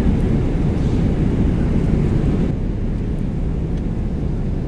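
Steady low rumble of a Boeing 777-300ER cabin in cruise flight, the drone of airflow over the fuselage and the engines.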